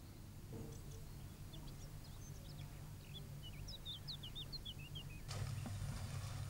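Faint birds chirping, a quick run of short high calls, over a low steady hum. The hum grows louder about five seconds in.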